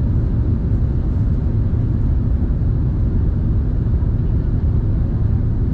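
Steady low rumble inside the cabin of an Airbus A380, the mix of engine and airflow noise with no change in level.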